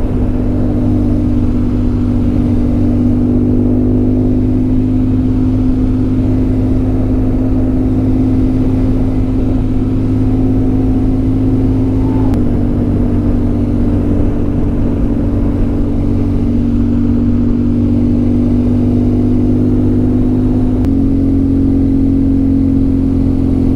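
Motorcycle engine running at a steady cruise as the bike is ridden, with a slight drop in pitch about halfway through and a slight rise a few seconds before the end.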